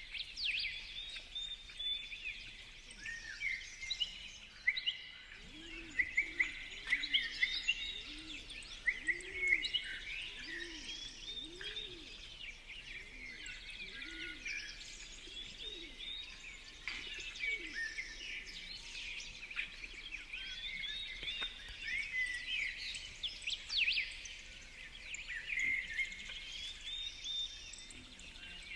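Many small birds chirping and calling at once, quick overlapping notes throughout. Between about five and twelve seconds in, a run of low notes that rise and fall, about one a second, sounds beneath them.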